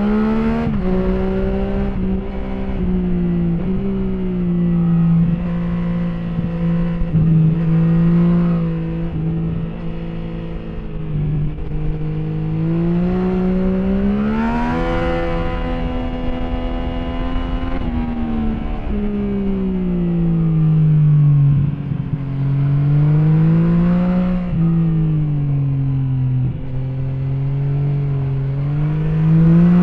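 A vehicle engine running under way, its pitch rising and falling with the throttle throughout, with several brief dips and a strong climb about halfway through and again at the end.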